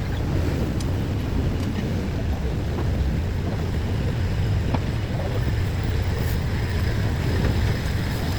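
Steady low rumble of passing vehicles, even throughout, with no crossing bell or horn.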